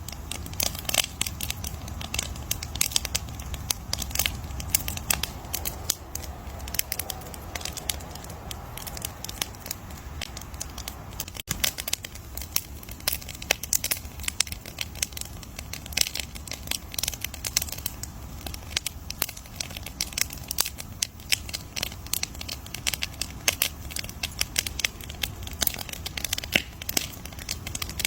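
Wood campfire crackling: a dense, irregular run of sharp pops and snaps over a low steady rumble of the burning fire.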